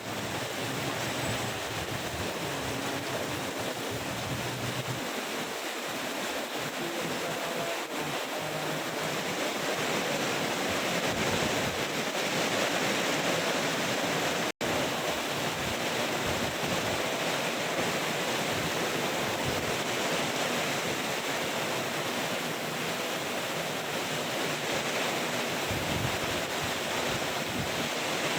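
Heavy rain pouring down in strong wind: a steady, dense hiss with a split-second dropout about halfway.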